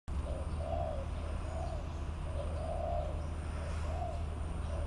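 A bird calling a run of short, low hooting coos, about two a second, over a steady low rumble.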